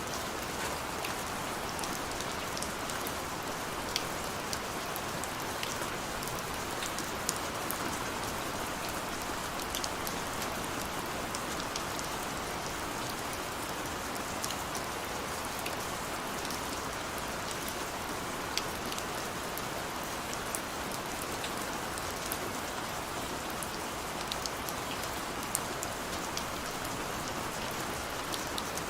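Steady rain falling on surfaces, an even hiss with many small sharp drop ticks scattered through it.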